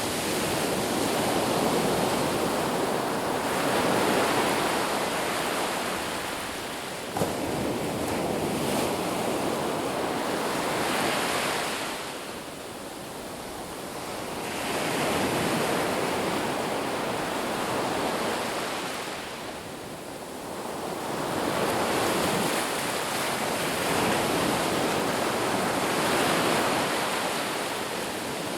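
Sea waves breaking and washing up the shore, the surf swelling and falling away every several seconds. A single sharp click about seven seconds in.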